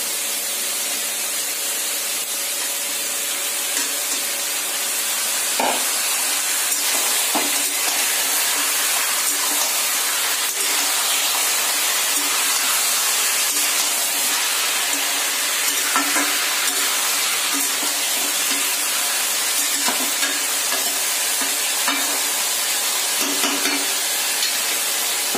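Raw chicken pieces sizzling in hot oil with fried onions in a metal kadai, stirred with a metal spatula that scrapes and clicks against the pan now and then. The sizzle gets a little louder about five seconds in.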